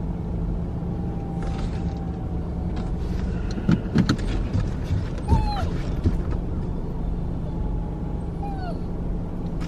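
Car cabin noise during slow parallel parking: a steady low engine and road hum, with a few clicks and knocks about four seconds in and a couple of faint short whines.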